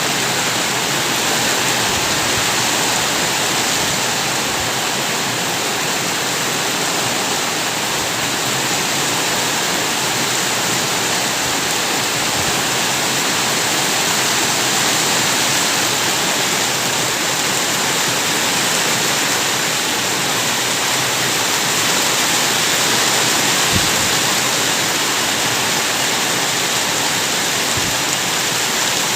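Steady heavy rain falling, an even hiss of water with a few faint drips and knocks.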